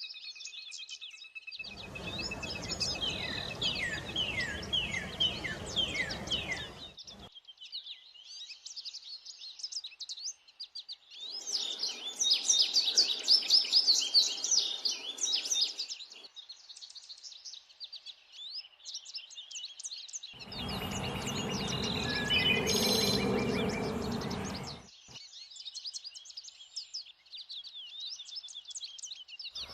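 A morning chorus of several songbirds, with many overlapping high chirps, trills and whistled phrases. Three times, a steady rushing noise comes in and cuts off abruptly, for about five seconds each time.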